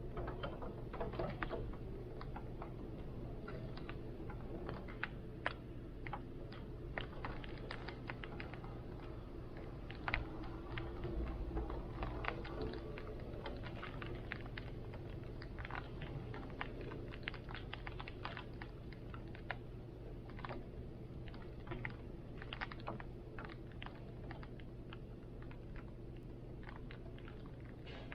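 Rain drops tapping irregularly on a hard surface, many small ticks, over a steady low rumble of wind.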